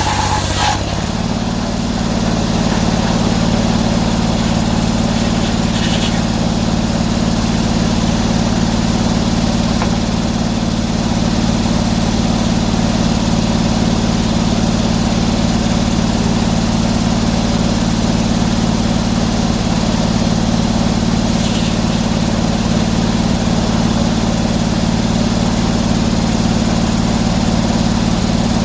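Sawmill engine running steadily. Its note changes about a second in and then holds even.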